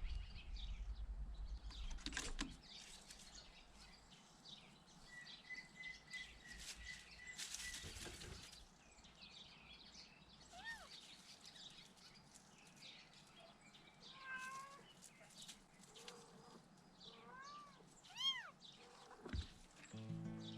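Young kittens mewing faintly, a few short high calls that rise and fall, the loudest near the end, among soft rustling and handling noise.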